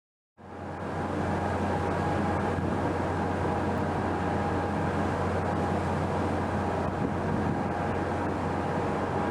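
Steady drone of a ship under way: a constant low engine and machinery hum with a few steady tones over a wash of wind and water noise, fading in within the first second.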